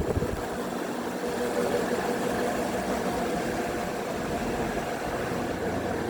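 Old 1980s Ciclone ceiling fan running: a steady motor hum and whir with a few faint steady tones.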